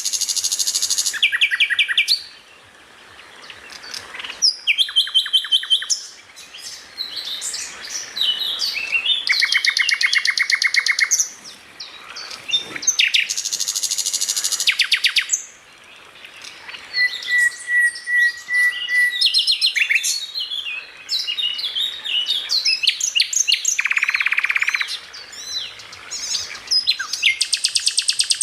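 Songbird song from a masteran tutoring recording for caged songbirds: a quick succession of varied phrases, with fast rattling trills a second or two long, sharp chirps and whistles, and one thin, steady whistled note about two-thirds of the way through.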